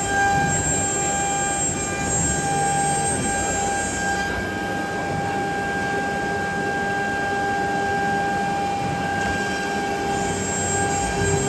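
Woodworking CNC router running, its 5.5 kW spindle giving a steady whine of several tones over the steady noise of the machine and its vacuum-table pump. A high hiss drops out about four seconds in and comes back about nine seconds in.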